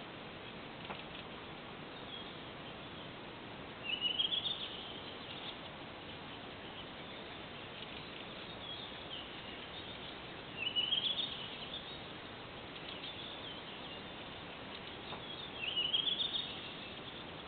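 A songbird singing a short, quickly rising phrase of high notes three times, about every six seconds, over a steady background hiss.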